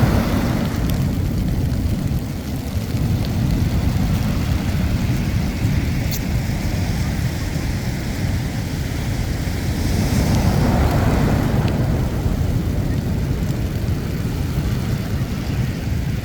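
Sea waves washing onto the shore: a continuous rushing surf with a heavy low rumble, swelling as a wave breaks about ten seconds in.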